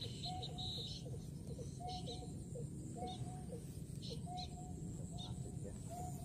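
Bird calls, short notes repeating about every second and a half, over a steady low rumble.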